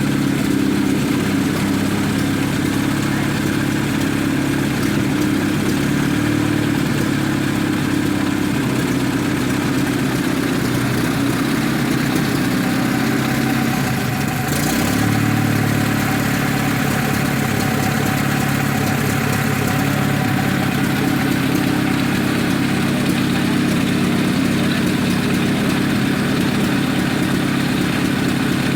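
Engine of an original, unrestored Oliver Chilled Plow Works tractor running steadily at idle after a hand-crank start, with a slight change in its note about halfway through.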